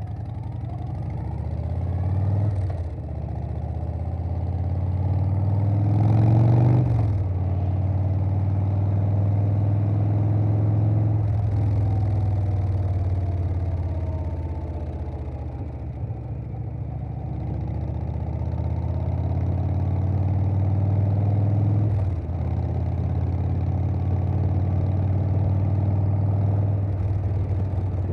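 Harley-Davidson Softail Standard's Milwaukee-Eight V-twin through a Vance & Hines Big Radius 2-into-2 exhaust, pulling under way. The engine note climbs and then drops suddenly at each upshift, four times. Between the second and third shifts it eases off and falls before picking up again.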